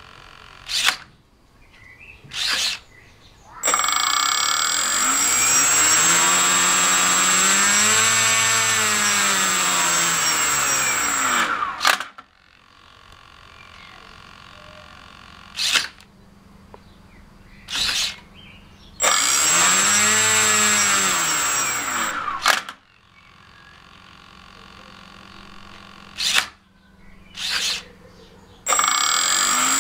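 Small motor-driven mechanism running in a repeating cycle: two short bursts, then a longer run that speeds up and slows down again, its pitch rising and falling under a steady high whine. The cycle plays through twice, and a third run starts near the end.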